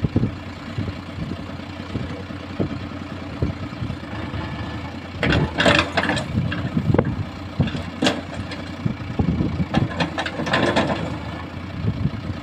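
Diesel engine of a farm or construction machine idling steadily, with a few short, louder noisy bursts around the middle and again near the end.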